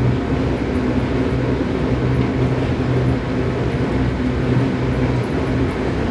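Seibu 6000 series electric train, a Toshiba IGBT VVVF set, running at speed, heard from inside a motor car: a steady rolling and running-gear noise with a low, even hum that dips briefly every second or so.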